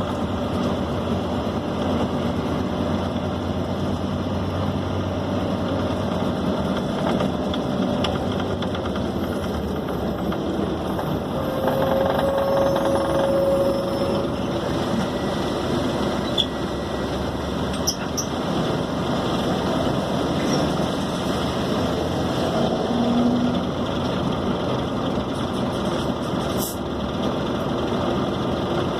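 Interior of a Scania K270 city bus underway: the diesel engine runs steadily under road noise and body rattles, with a brief whine partway through.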